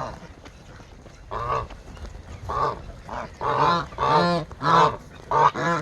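Domestic geese honking: a run of short honks, a few at first, then coming faster and louder from about three seconds in.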